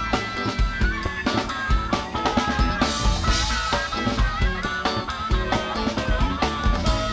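Funk band playing live, with a tight beat on the drum kit's bass drum and snare, electric bass underneath, and a pitched melodic line over the top.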